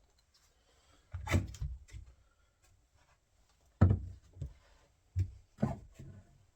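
About half a dozen irregular knocks and clunks of a door latch being handled against the wooden door, the loudest about a second in and just before the middle.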